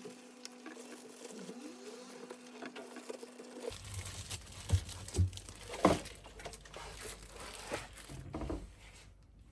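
Rustling, rubbing and light knocking of hands working at a washing machine's rubber door seal, with a few louder knocks midway. A faint low hum stops a few seconds in.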